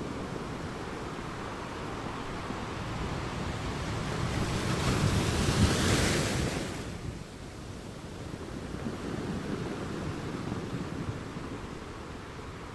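Steady rushing noise that swells into a louder whoosh about five to seven seconds in, then settles back.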